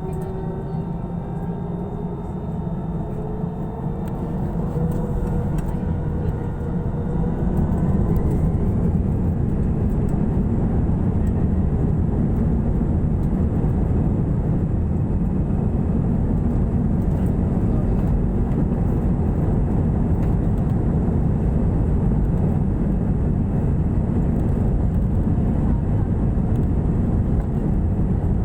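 Airliner's engines spooling up to take-off power: a rising whine and growing loudness over the first eight seconds or so, then a steady, loud low rumble through the take-off roll.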